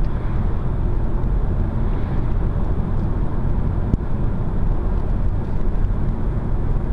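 Steady road and tyre noise with a low rumble, heard from inside a car cruising at about 90 km/h.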